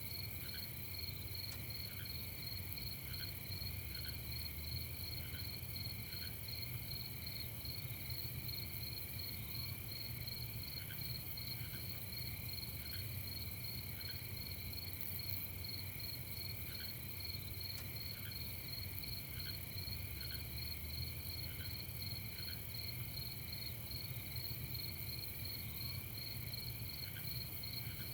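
Night insect chorus: crickets trilling steadily in several high bands, with short, lower chirps every second or so and a faint low rumble beneath.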